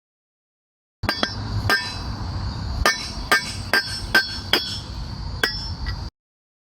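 Hammer striking a chisel against a lawn tractor front wheel bushing to drive it out of the metal rim: about ten sharp, ringing metallic blows at an uneven pace. They start abruptly about a second in and cut off abruptly near the end.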